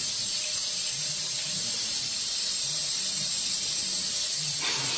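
Water tap running in a thin, steady stream onto a cat lying in a sink: a constant hiss of falling water splashing on wet fur and the shallow water around it.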